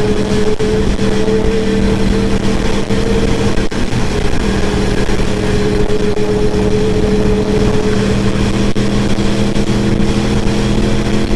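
Motorcycle engine running at a steady pitch while riding, with a constant rush of noise underneath.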